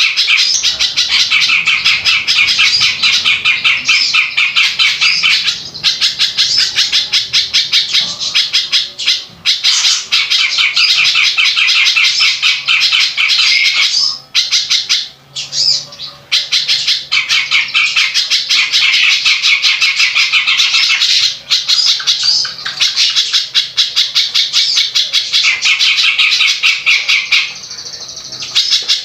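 A songbird singing a harsh, rapid chattering song of fast repeated notes, with short breaks about nine seconds in and again around fifteen seconds.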